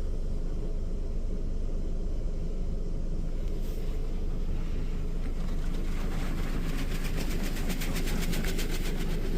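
Petit Accutrac touchless car wash spraying pre-soak onto a car, heard from inside the cabin over a steady low rumble. From about four seconds in, the spray hiss grows louder and takes on a fast, even flutter as the nozzles pass over the body.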